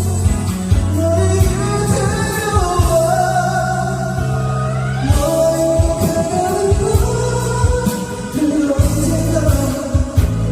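Karaoke backing track of a Korean pop ballad playing, with bass, drums and a melodic lead line that slides between some notes.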